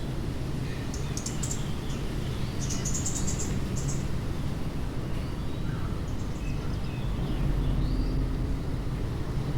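Small birds chirping in quick, high series, twice in the first four seconds with a few fainter calls later, over a steady low rumble.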